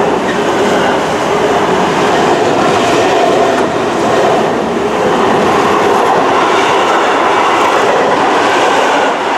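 Container freight train's wagons running past at speed, a loud steady noise of wheels on the rails.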